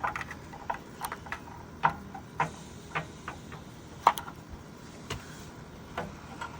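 A series of irregular sharp clicks and light knocks, about a dozen, some with a short ringing tone.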